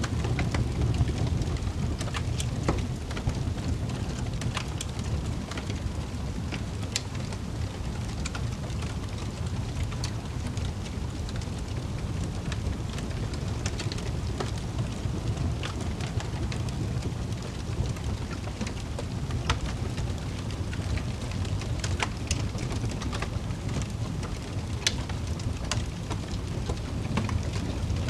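Wood fire in a fireplace crackling, with scattered sharp pops over a steady low roar.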